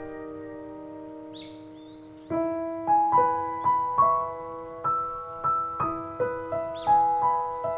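Background piano music: a held chord fades, then notes are struck about twice a second from about two seconds in. A brief high bird call sounds twice through the music, about a second and a half in and near the end.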